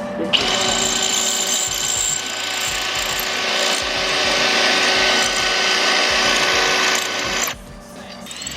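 A handheld power tool runs steadily on steel for about seven seconds, a dense whirring whine with steady high tones, then cuts off sharply near the end.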